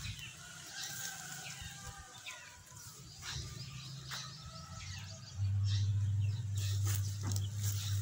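Small birds chirping in short, quick calls, with a low steady rumble coming in about five seconds in.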